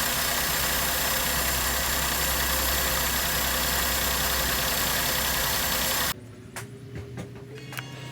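Maruti Suzuki K-series petrol engine idling steadily, then cutting off suddenly about six seconds in, leaving a few faint clicks.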